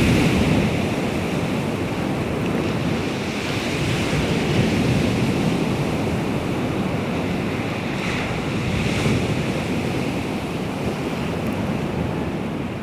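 Baltic Sea waves breaking and washing on the shore in a continuous rush, with wind rumbling on the microphone.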